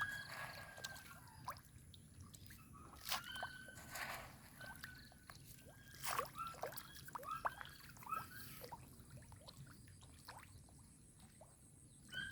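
Faint small splashes and gulps of fish taking food at the surface of a pond, scattered irregularly, with a few short high chirps between them.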